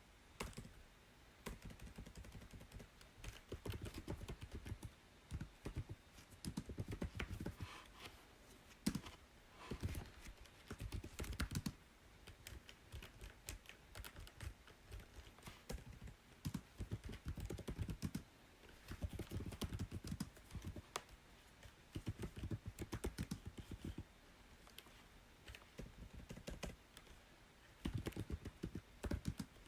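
Typing on a computer keyboard: runs of quick keystrokes with brief pauses between them.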